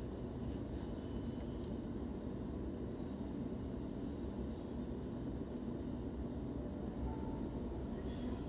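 Steady low hum and rumble inside an electric suburban train carriage while it stands at a station platform.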